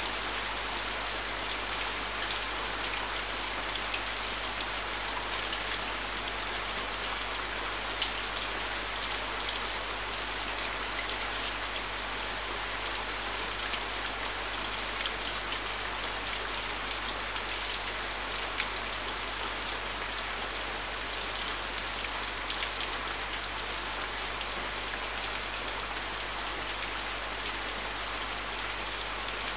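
Steady rain falling, an even hiss with scattered sharper drop ticks, one louder tick about eight seconds in.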